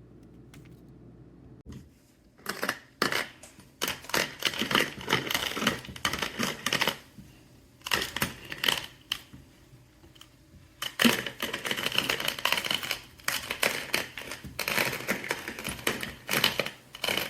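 Wooden hand-cranked coffee grinder crunching coffee beans: rapid, irregular clicks and cracks in several stretches with short pauses, starting about two seconds in.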